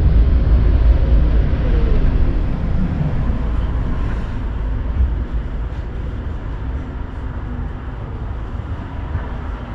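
Tram running along its rails with a heavy low rumble that slowly eases off, while a whine falls in pitch during the first few seconds, as when the tram slows down.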